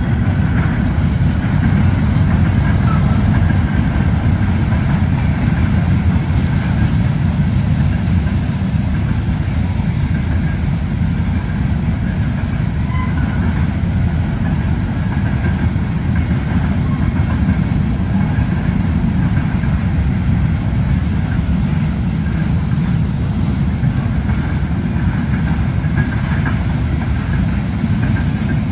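Freight cars rolling past on the track: a loud, steady rumble of steel wheels on the rails that does not let up.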